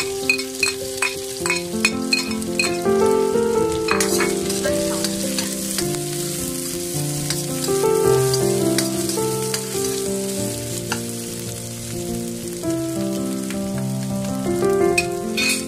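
Garlic and sliced onion sizzling in hot oil in a stainless steel wok, with a metal spatula tapping and scraping against the pan in frequent sharp clicks. A simple melody of held notes plays over it.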